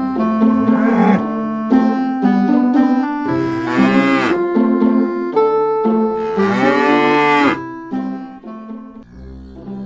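Two long cow moos, the first about three and a half seconds in and the second about six and a half seconds in, each arching up then down in pitch, over piano-like background music.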